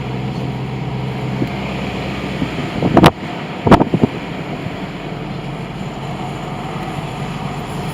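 Car driving, with a steady road and wind noise and a low engine hum that fades in the first couple of seconds. Two sharp, loud knocks come about three and four seconds in.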